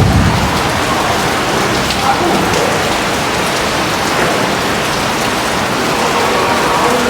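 Heavy rain falling steadily, a dense even hiss of drops on surfaces, with a brief low rumble at the very start.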